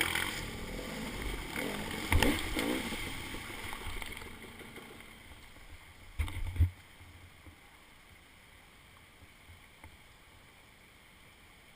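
Dirt bike engine running through a shallow creek with water splashing, and a sharp knock about two seconds in as the bike strikes a rock. The engine and splashing then fade to a faint water hiss, broken by one short loud burst a little after six seconds.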